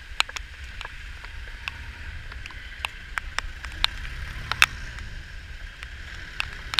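Raindrops striking the GoPro's waterproof housing as sharp, irregular clicks, about two a second, over the steady hiss of rain and a low rumble.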